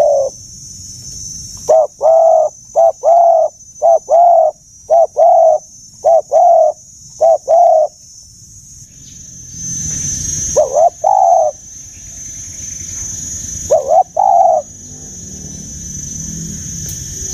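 Spotted dove cooing: a run of about eight short, low coos in the first half, then two brief pairs of coos later, over a steady high hiss.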